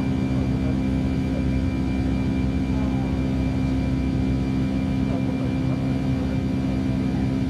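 Steady drone inside the cabin of an Airbus A319 airliner, engine and airflow noise with a constant low hum.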